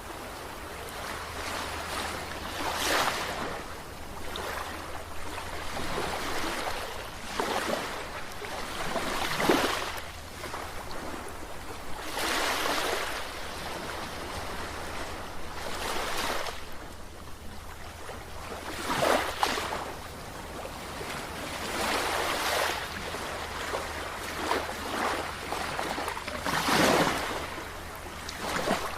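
Sea waves breaking and washing in, a fresh surge every few seconds over a steady wash of surf.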